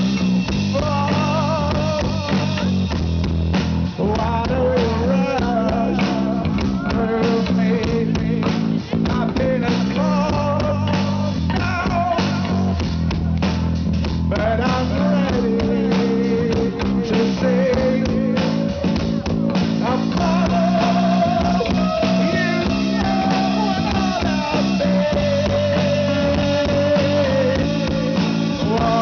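Live rock band playing a song: a sung melody over heavy, droning bass guitars and a steady drum kit beat.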